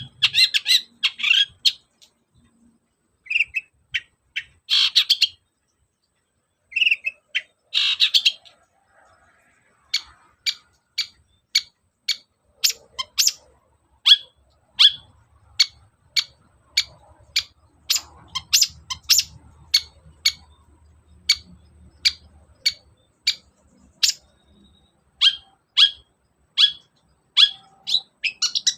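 Long-tailed shrike (cendet) singing: clusters of rapid, chattering high notes over the first several seconds, then from about ten seconds in a long run of short, sharp calls at about two a second.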